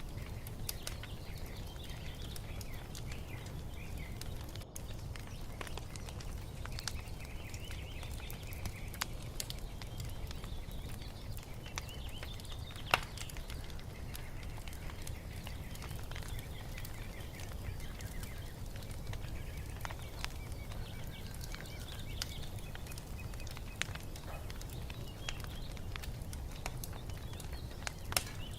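Wood fire crackling in a fireplace, with scattered pops over a low steady rumble; one sharp pop about 13 seconds in is the loudest. Birds chirp faintly in the background.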